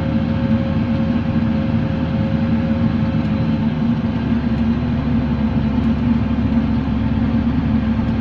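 Case IH Steiger 335 tractor's engine running steadily, heard from inside the cab as an even drone with a steady higher tone above it.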